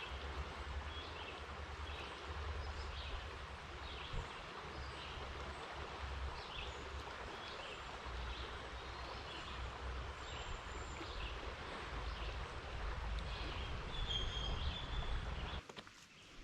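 Steady outdoor rushing noise with a low rumble underneath, and birds chirping in short repeated notes throughout. The ambience cuts off suddenly near the end.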